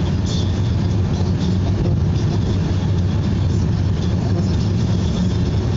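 Steady drone of a road vehicle driving on a wet highway: a low engine rumble under an even hiss of tyre and road noise.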